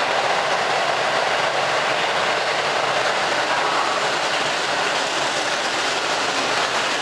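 Keihan 2600-series electric train pulling into an underground station platform: a steady rushing noise of wheels on the rails and running gear as the cars pass.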